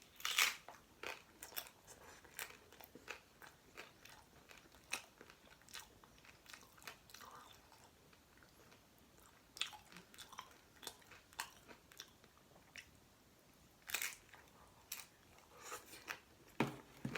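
Close-up chewing and crunching of a taco, with sharp, crackly bites; the loudest crunches come just after the start, about fourteen seconds in, and near the end.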